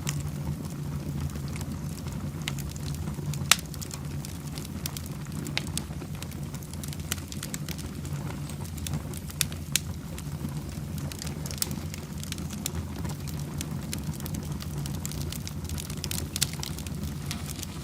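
Fireplace fire burning with a steady low rumble and irregular sharp crackles and pops. The loudest pop comes about three and a half seconds in.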